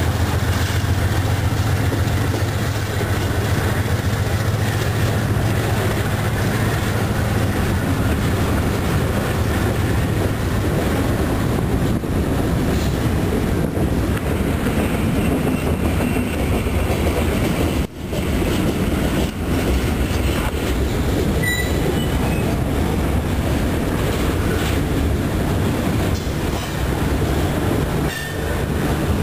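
CN freight train passing close by: the diesel locomotives run past with a strong low engine hum over the first several seconds, then loaded covered hopper cars roll by with steady wheel-on-rail noise. There is a brief high wheel squeal about two-thirds of the way through.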